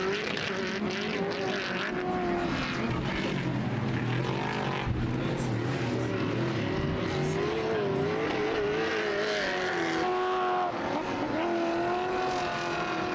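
Race car engines running at high revs, their pitch wavering up and down over a steady rushing noise.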